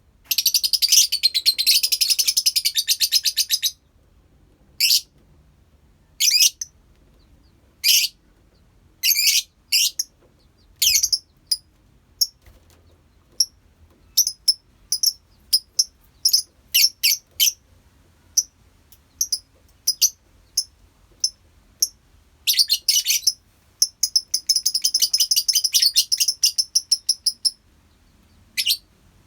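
A colony of lovebirds chirping: a long spell of rapid, high-pitched chatter at the start, then scattered short sharp calls, and another spell of chatter a little past two-thirds of the way through.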